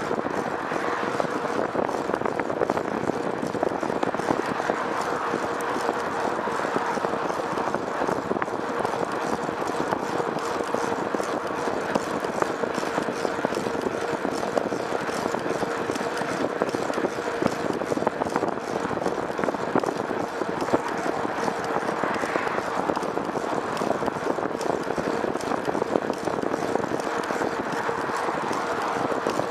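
Steady travel noise from a moving vehicle: a dense, continuous rattle with a constant hum throughout.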